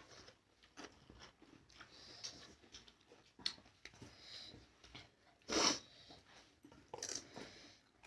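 Close-up eating sounds: crisp pani puri shells crunched and chewed, with two louder noisy bursts about five and a half and seven seconds in.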